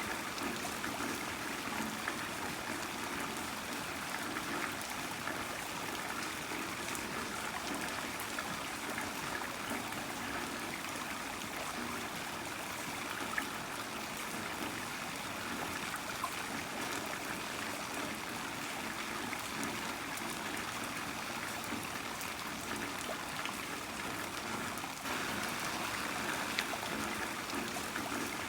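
Heavy rain falling steadily: an even hiss with scattered single drop taps and a trickling, running-water quality. It gets a little louder for the last few seconds.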